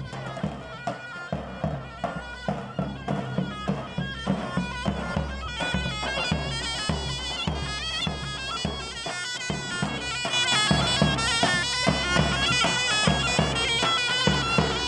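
Zurna playing a fast, shrill halay dance tune over steady davul drum beats, getting louder about ten seconds in.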